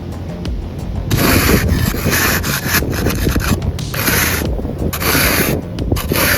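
Snow being swept and scraped off a car with a snow brush and scraper, in several long sweeping strokes starting about a second in.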